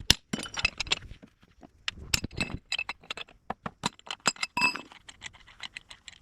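Metal hand tools and parts clinking against each other in a quick, irregular run of sharp clicks, many with a brief bright ring.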